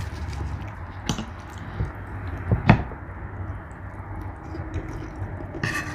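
A person eating: soft wet chewing with a few sharp clicks, the loudest about two and a half seconds in.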